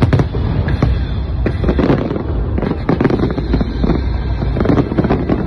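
A fireworks display going off in rapid succession: many sharp bangs and crackles, one on top of another, over a steady low rumble.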